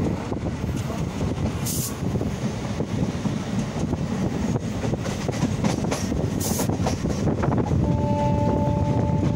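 Train running with a steady low rumble and rattling clicks. Near the end a horn starts, two steady notes sounding together and held.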